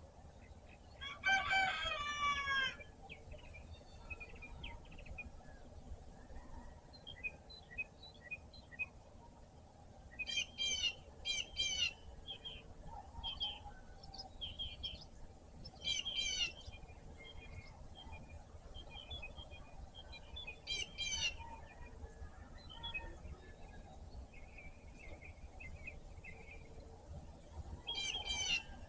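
A rooster crows once, about a second in, followed by songbirds singing short repeated phrases every few seconds with scattered chirps in between.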